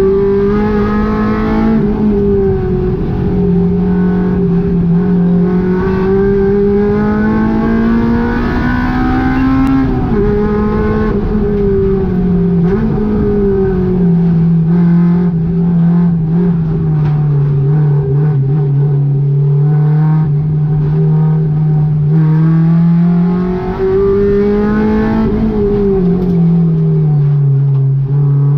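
Honda K20 inline-four engine in a Volkswagen GTI, running hard on a race track. Its pitch climbs under acceleration and falls back several times as the car shifts and brakes through corners.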